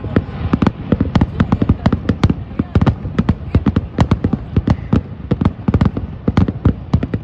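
Rapid barrage of fireworks: a dense, irregular string of sharp bangs and pops, several a second, without a break.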